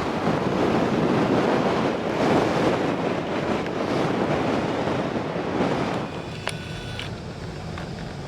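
Strong wind buffeting the microphone in gusts, easing off about six seconds in. A brief high tone sounds just after it eases.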